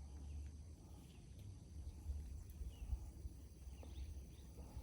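Quiet outdoor ambience: a steady low rumble with faint, steady high-pitched insect buzzing and a few soft ticks.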